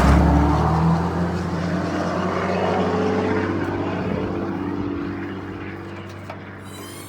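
2005 Dodge Ram 2500's 5.9 Cummins inline-six turbo diesel idling with a steady drone, gradually getting quieter.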